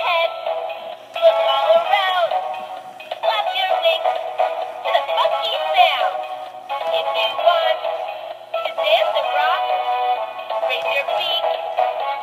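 A pet bird making a continuous, song-like stream of warbling, voice-like sounds and whistles with quick rising and falling glides, in several phrases with brief pauses between them.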